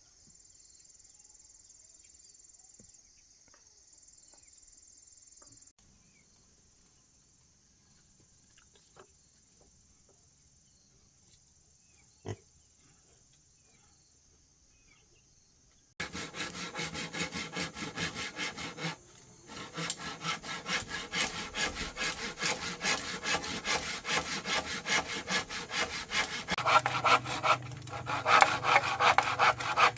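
Faint insects chirping, then about halfway in a hand saw starts cutting wood with fast back-and-forth strokes. The strokes pause briefly twice and grow louder toward the end.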